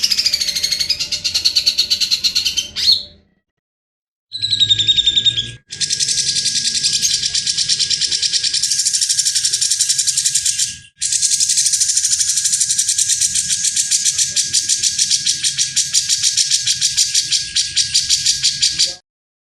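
Songbird singing: a phrase of quick repeated notes, then two long, fast, rasping trills with a short break between them, the harsh 'besetan' style prized as masteran tutor song.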